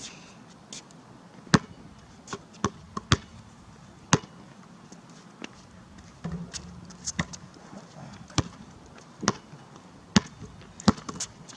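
A basketball bouncing on a hard court: about ten sharp, separate thuds at irregular intervals, as the ball is shot, rebounded and dribbled.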